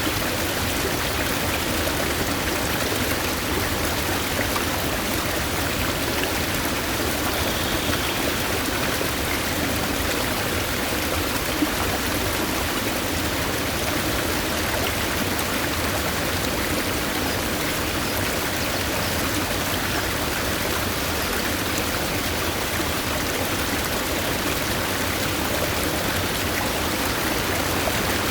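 Forest stream running steadily: an even, continuous rush of flowing water.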